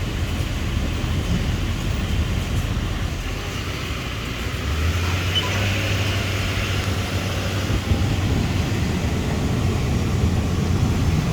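Truck engine running while towing a camper trailer, with steady road rumble; a deeper steady drone comes in about halfway through.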